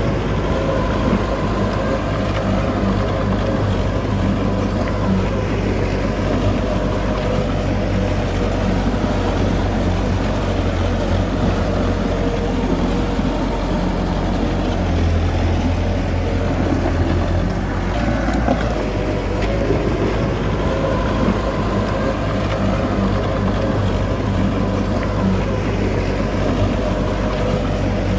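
Heavy diesel engine of earth-moving machinery running steadily with a deep drone. The low end swells for a couple of seconds about halfway through.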